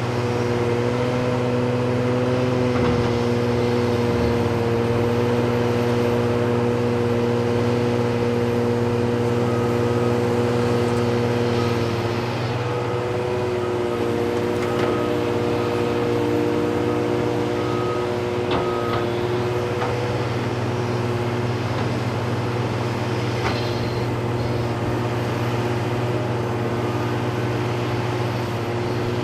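Heavy diesel engines of Deere excavators and CAT 745C articulated haul trucks running steadily, their engine note shifting about twelve seconds in. A repeating beep sounds for about ten seconds in the middle, and there are a few knocks.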